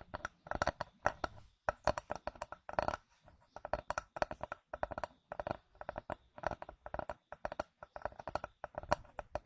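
Rapid tapping on a small wooden cutting board, quick runs of crisp taps broken by short pauses.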